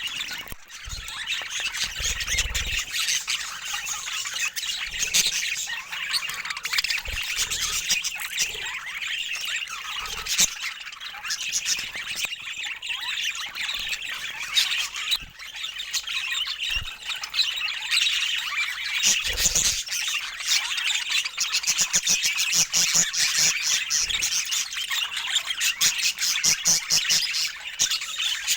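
Budgerigars chattering and warbling continuously, with a stretch of rapid, clicky chatter near the end.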